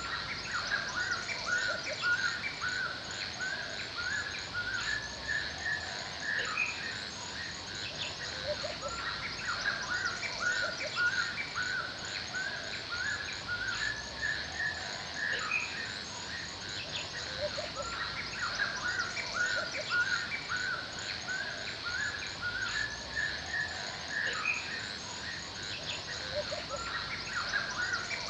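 Forest ambience of many birds singing and chirping in short, overlapping phrases, over a steady high, rapidly pulsing chorus of insects. Now and then a lower single call sounds beneath them.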